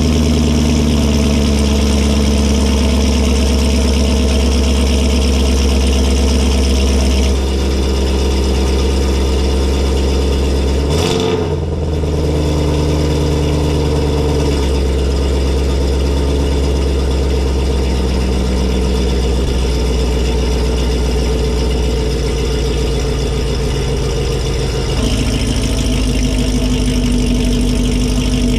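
Camaro 2SS 1LE's 6.2-litre V8 idling cold through long-tube headers and a cat-delete exhaust, with a steady, loud note. The idle shifts in steps a few times and briefly dips about eleven seconds in.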